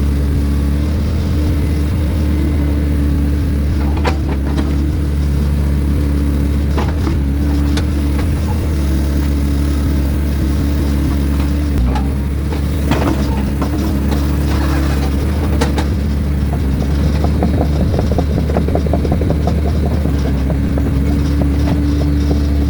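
Heavy diesel engine of earthmoving or hauling equipment running steadily, with a low drone, and a few sharp metallic knocks and clanks scattered through.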